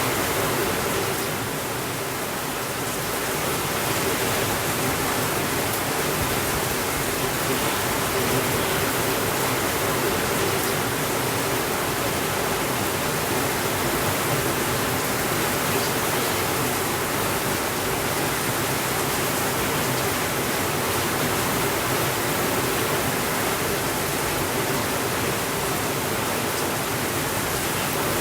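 Steady heavy rain: an even, unbroken hiss that dips slightly about two seconds in.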